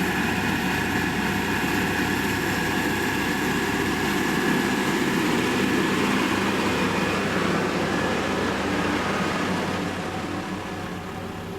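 Engine of heavy road-building machinery running steadily under load, getting somewhat quieter near the end.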